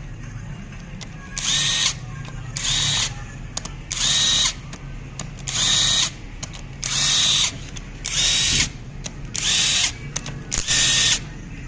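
Power tool run in about eight short bursts of roughly half a second each, a second or so apart, over a steady low hum, typical of bolts being spun loose while an engine is taken apart.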